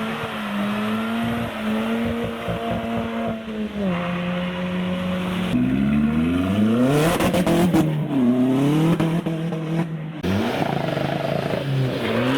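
Modified car engines running, then revving hard as a car accelerates away. The engine note climbs steeply about six seconds in and rises again a couple of seconds later.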